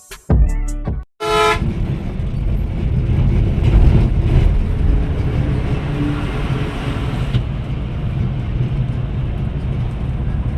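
A vehicle horn toots once briefly about a second in, then the steady low rumble of a moving bus's engine and road noise.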